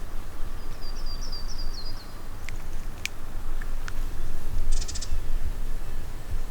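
A bird gives a quick series of high chirps about a second in, over a low steady rumble. A few sharp ticks and a brief high buzzy note follow near the middle.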